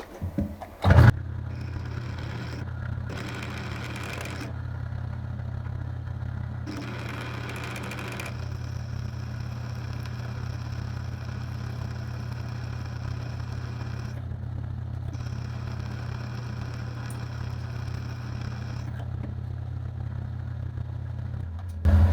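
A machine-tool spindle motor switches on with a knock about a second in, runs with a steady hum, and stops near the end. Three times along the way a higher scraping cutting noise comes and goes as the tool is fed into the 4140 steel block to deepen the bolt hole.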